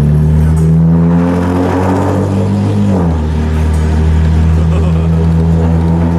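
BMW E30 325i's straight-six engine pulling as the car accelerates. Its pitch climbs slowly, drops suddenly about three seconds in at a gear change, then holds steady.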